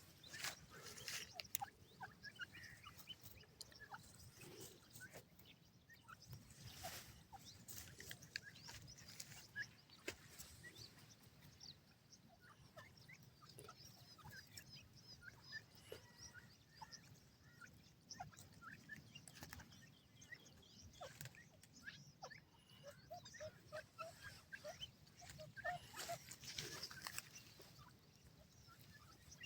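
Francolin (teetar) chicks peeping faintly: many short, high chirps scattered all through, with a few soft knocks.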